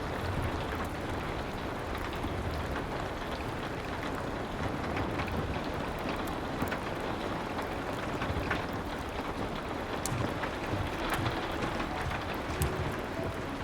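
Steady rain pattering against a window, with the scattered sharp crackles of a wood fire on top.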